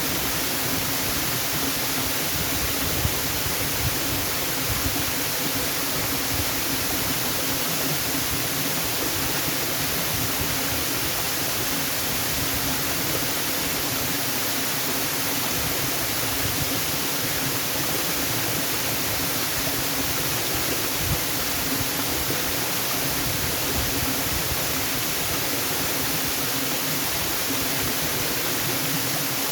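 Waterfall: falling water making a steady, even hiss with no breaks or changes.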